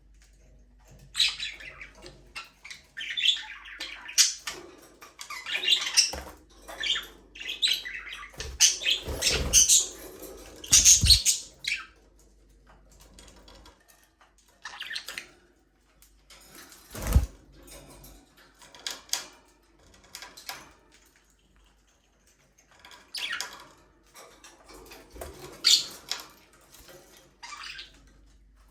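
Budgerigars chirping and chattering in irregular bursts, with a few dull thumps in the middle.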